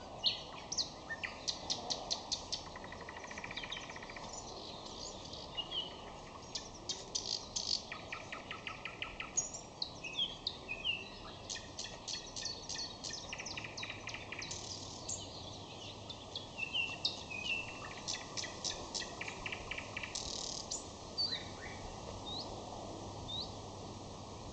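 Nightingale singing: phrases of rapidly repeated clicking notes and trills alternating with short whistles and slurred notes, with brief pauses between phrases.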